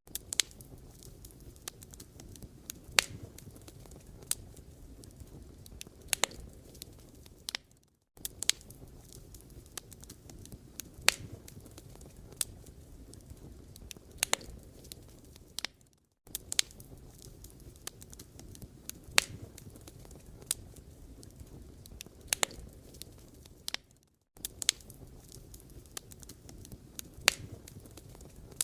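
Firewood fire burning, with a low steady rumble and irregular sharp crackles and pops. Brief silent gaps come about every eight seconds.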